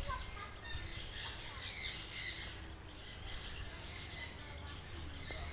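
Birds calling, with many short chirps and calls scattered through, over a faint low background hum.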